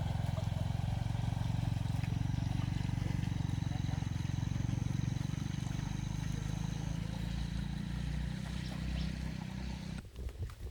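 An engine running steadily at a low, even idle, then cutting off suddenly about ten seconds in.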